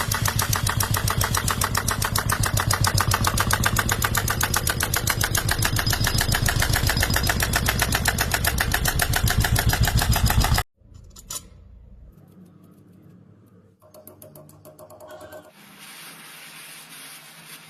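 Miniature model steam engine running fast with rapid, very even chuffs. The sound cuts off suddenly about ten seconds in, followed by a single click and faint, irregular handling noise.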